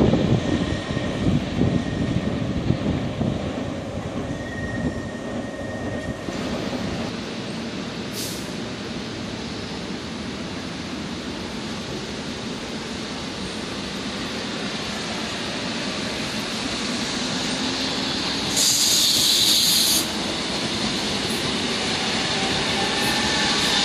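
Electric multiple-unit train running on track. A low rumble fades over the first few seconds. Then a Seoul Metro Line 1 converted rheostat-control EMU approaches and passes, its rail noise building steadily, with a short loud hiss about three-quarters of the way through.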